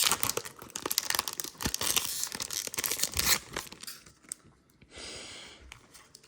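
A foil Pokémon booster pack wrapper being torn open and crinkled for the first three and a half seconds, then quieter, with a brief soft hiss about five seconds in.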